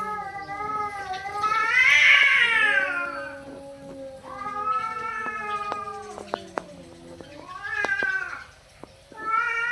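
Cats yowling at each other in a standoff, the threat calls before or during a territorial cat fight. About four long, wavering yowls that rise and fall in pitch; the first and loudest peaks about two seconds in. A couple of sharp ticks fall in the middle.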